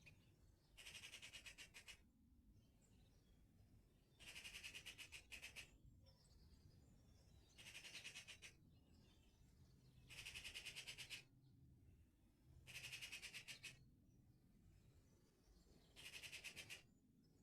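A songbird singing a fast trill of rapid repeated notes, about a second long, six times in a row at roughly three-second intervals.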